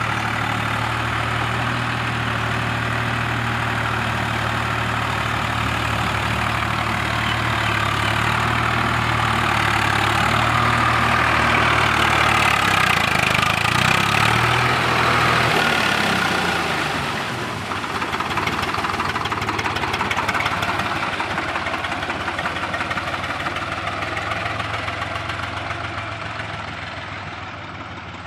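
Swaraj tractor's diesel engine running steadily with a knocking clatter; about 16 s in its note drops and changes, and it slowly gets quieter toward the end.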